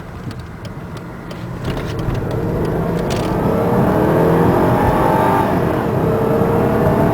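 Mercedes-Benz S500's V8 engine pulling as the car accelerates away, its pitch rising, dropping once about five and a half seconds in as the automatic gearbox shifts up, then rising again. The owner finds the shifts too rough. A turn-signal relay ticks steadily through the first three seconds, then stops.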